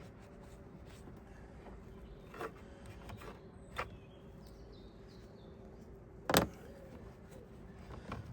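Handling noises while a petrol chainsaw is being fuelled: a few light knocks and one sharper clack about six seconds in, over a faint steady hum.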